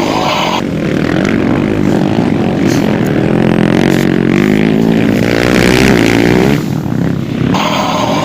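An ATV-type engine runs and revs, its pitch rising and falling several times through the middle.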